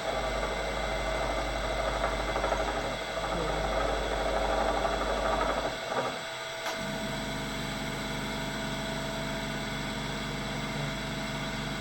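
Bridgeport milling machine cutting mild steel with a carbide end mill: a rough cutting noise for about six seconds, then a click and the spindle running on with a steady hum once the pass is finished.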